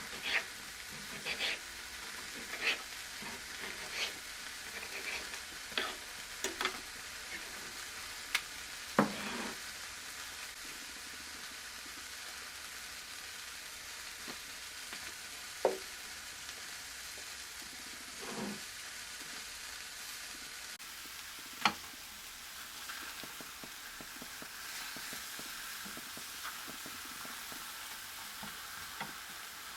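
Rice patties shallow-frying in vegetable oil in a pan, a steady sizzle throughout. Sharp clicks and taps come about once a second for the first ten seconds, then only now and then.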